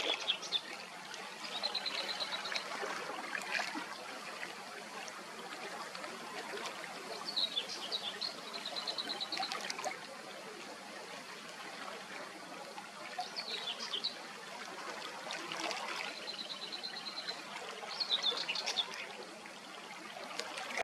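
A small songbird singing short, high phrases every few seconds, each a quick run of notes, over a steady background hiss.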